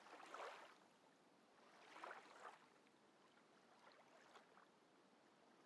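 Near silence, with two faint, soft swells of hiss in the first half.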